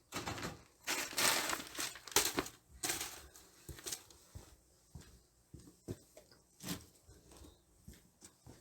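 Crinkling, crumpling handling noise for the first few seconds, then scattered light clicks and taps.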